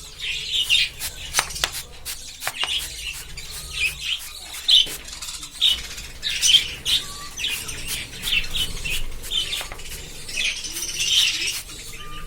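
A colony of budgerigars chirping and chattering, many short high chirps overlapping, with scattered sharp clicks.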